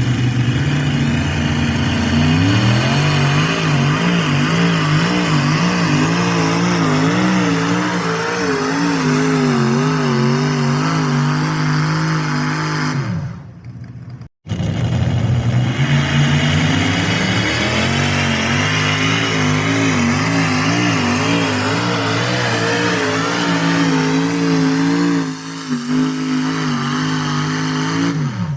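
Pulling tractor engine revving up and running hard under load, its pitch wobbling as it works, then dropping off about 13 seconds in. After a sudden cut a second tractor pull run follows, the engine again held high under load before falling away near the end.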